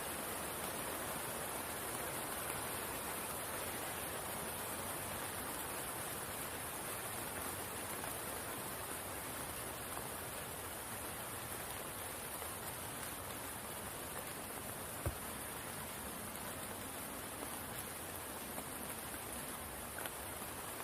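Steady rain falling on a spring-fed pool and its stream, an even hiss. A single low thump comes about fifteen seconds in, and a faint click near the end.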